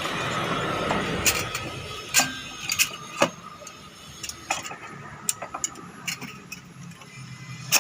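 Irregular sharp metallic clicks and clinks of hand tools and parts being handled during motorcycle engine work, over a steady hum during the first second and a half.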